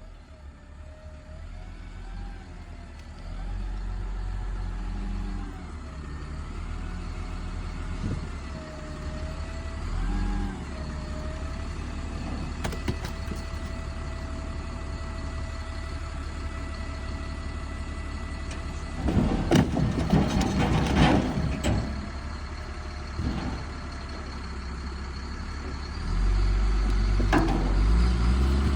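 Dump truck engine running with its pitch rising and falling. A loud, noisy stretch of a few seconds comes past the middle, and the engine gets louder near the end.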